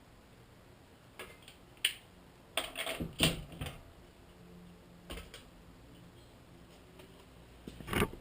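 Irregular light clicks and knocks, a few single ones and a short cluster about three seconds in, with a louder knock near the end, as of tools or sheet-metal parts being handled.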